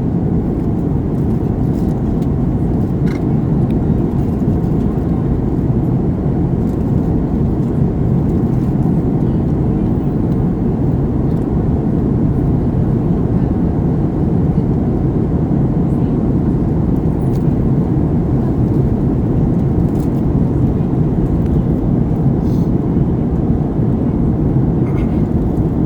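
Steady, even cabin noise of an airliner in flight: the low drone of engines and airflow heard from inside the passenger cabin, holding level throughout.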